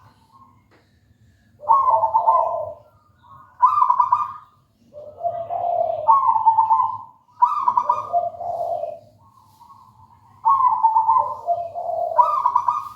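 Zebra dove (perkutut) singing its cooing song: five loud phrases of rolling coos, each a second or two long and stepping down in pitch, with short pauses between. A faint steady low hum runs underneath.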